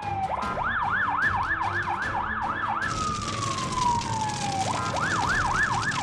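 Cartoon emergency-vehicle siren: a slow falling wail, then a fast up-and-down warble of about three to four sweeps a second. The pattern starts over about three seconds in, with a second falling wail and the warble again near the end.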